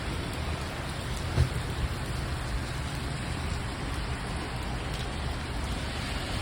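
Steady rain falling, an even hiss, with a low rumble underneath and one brief thump about a second and a half in.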